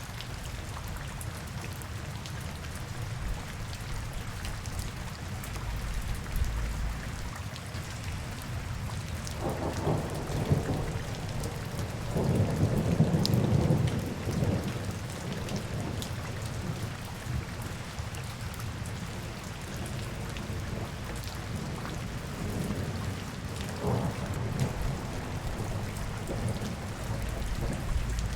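Steady rain falling. A low rumble swells about ten seconds in, is loudest around thirteen seconds, fades by fifteen, and a shorter one comes near the end.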